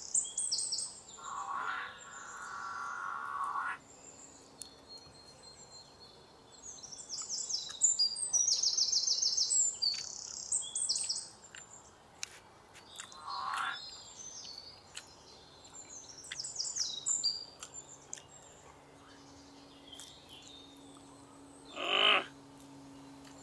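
Small birds chirping in bouts of quick, high-pitched repeated trills. Near the end there is a brief, louder, lower sound.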